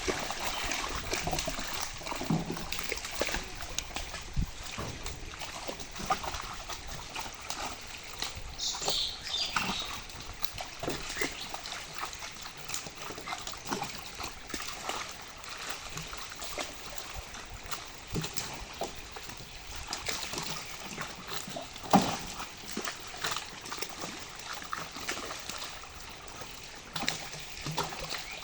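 Irregular water splashing and sloshing in a fishing pond, with scattered small knocks and one sharp, loud knock about 22 seconds in.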